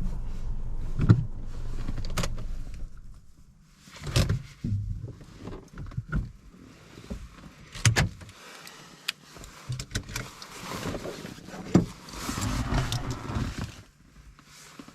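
Car heard from inside while moving slowly over an uneven road: a low rumble that falls away about three seconds in, then scattered knocks and thumps.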